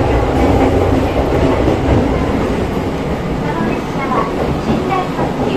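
Steady running noise inside a Series 285 sleeper train car under way: a continuous low rumble with rail noise. Faint voices come in near the end.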